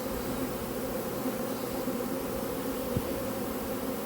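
A swarm of honey bees buzzing steadily en masse, a dense hum as the shaken-down swarm settles and marches into a hive box. A single faint click about three seconds in.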